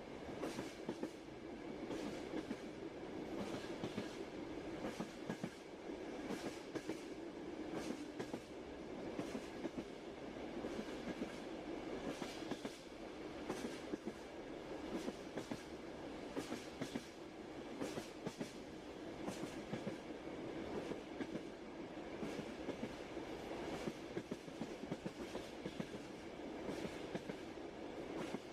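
Passenger train rolling along with a steady rumble, its wheels clicking and clacking over the rail joints in irregular clusters of sharp knocks.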